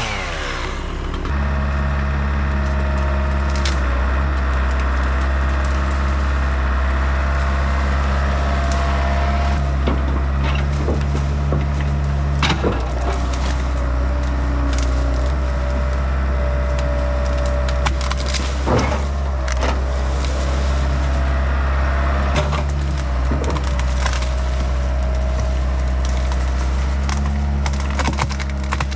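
A diesel excavator engine runs steadily while hickory wood cracks and splinters in short sharp snaps, the clearest about halfway through and again about two-thirds of the way in.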